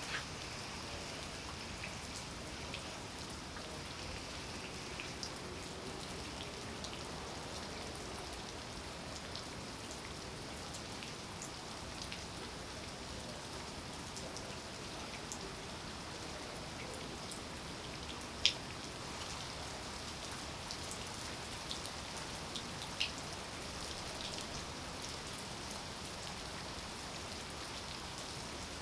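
Steady rain falling, with single drops striking close by and ticking over the even hiss; two louder drop hits come about 18 and 23 seconds in.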